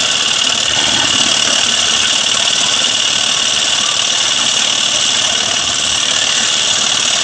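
An engine running steadily at an even speed, with a rattling, vibrating edge and no change in pace.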